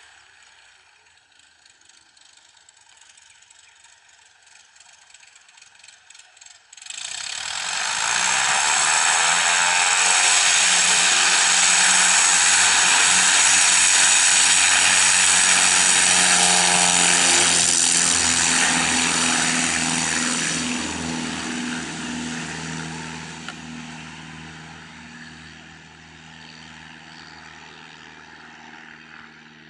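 Van's RV-10 single-engine propeller airplane running at high power as it passes close by. The sound comes in suddenly about seven seconds in, stays loud for about fifteen seconds, then fades to a steady, quieter drone.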